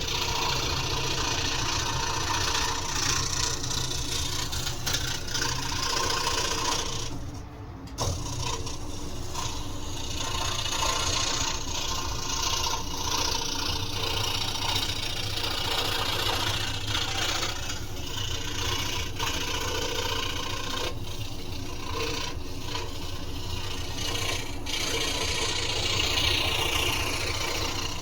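Scroll saw running and cutting through wood, a steady reciprocating buzz with a rasping cut; it drops off briefly about seven seconds in, then picks up again.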